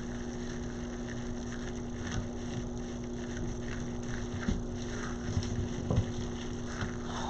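A steady low electrical-type hum under a light noise bed, with a few faint rustles and taps of ribbon being handled and pulled into a wreath board.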